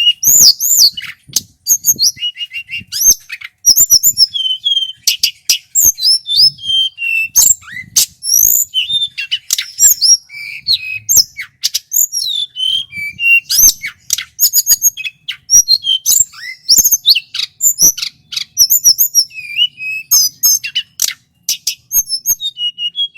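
Male tledekan gunung singing a loud, clear, fast run of varied whistled phrases: quick rising and falling notes, trills and sharp clicking notes, one after another without pause.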